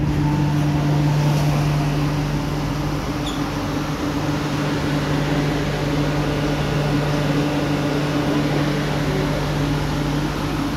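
Steady hum and drone inside the cabin of an MTR Island Line Q-Train, the train's running equipment and ventilation giving a constant low tone.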